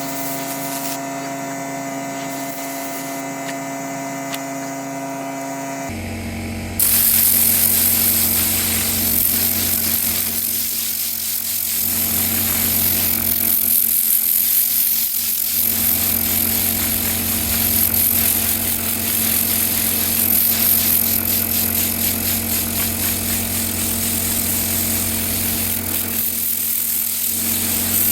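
Motorised detailing equipment running: a steady machine hum, then about six seconds in a louder, hissing machine sound takes over and carries on.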